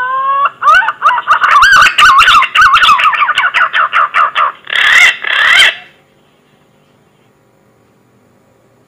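Green pigeon (punai) lure call: a rising whistle followed by a run of quick, wavering warbled notes. It closes with two louder, rougher notes about five seconds in and stops about six seconds in.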